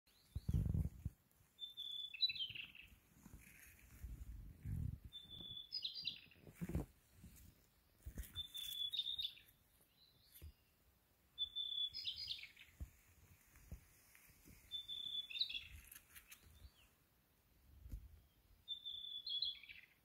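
A songbird repeating one short song about every three seconds, six times: a held high whistled note running straight into a quick jumble of notes. Low thumps come in between the songs, the loudest right at the start.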